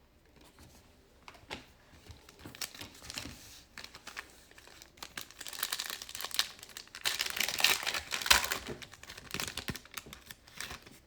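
A trading-card pack wrapper being torn open and crinkled by hand, a dense crackling that grows busier in the second half.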